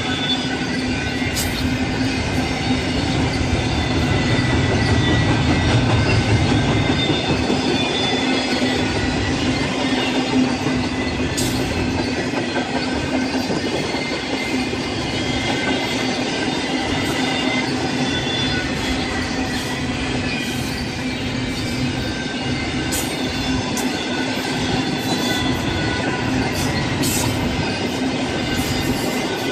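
A train rolling past at steady speed: a continuous rumble of cars on the rails, with thin wheel squeals and a few sharp clicks.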